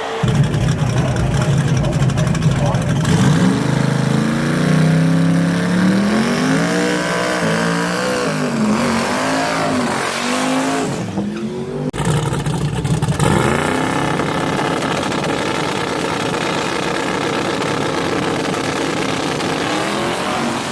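Drag-racing V8 engines running hard, the pitch climbing and dropping repeatedly as they rev and shift. About twelve seconds in the sound breaks off abruptly, and a steadier engine drone takes over.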